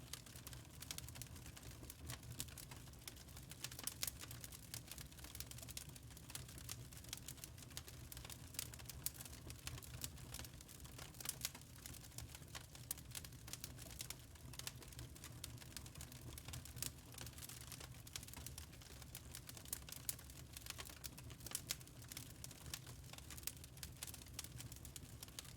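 Wood fire crackling: a dense run of small irregular pops and snaps over a low steady hum.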